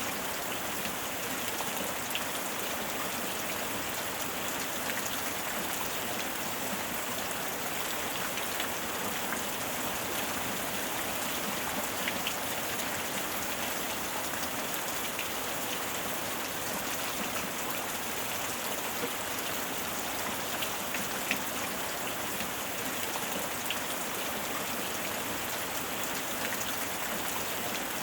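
Steady heavy rain falling on a surface, an even hiss with scattered individual drop ticks.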